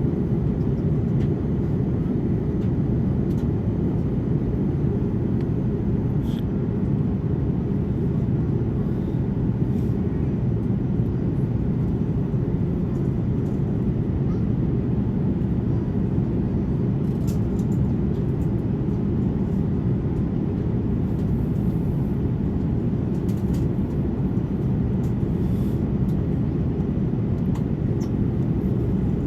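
Steady low roar inside the cabin of an Airbus A330-200 in flight, a constant din of engine and airflow noise.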